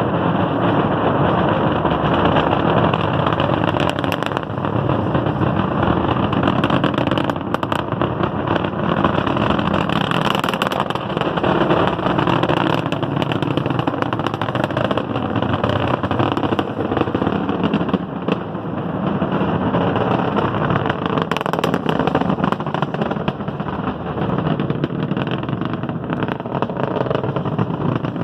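Distant rumble and crackle of a Falcon 9 first stage's nine Merlin engines climbing after liftoff: a loud, continuous rocket roar with sharp crackles scattered through it, rising and falling slightly in strength.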